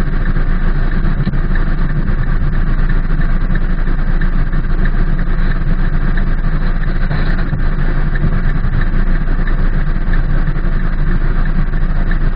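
Rain falling on a car's roof and windows, heard from inside the car: a steady, dense patter of drops over a low rumble.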